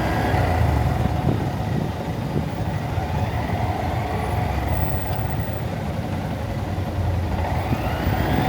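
Honda Monkey motorcycle's single-cylinder engine running in slow traffic, its pitch rising near the start and again near the end as it pulls away, under steady wind rumble on the camera microphone and the low rumble of surrounding traffic.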